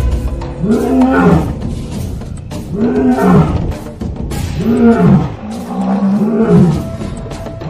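Lion roaring in a series of long, arching calls, about five in a row, with music underneath.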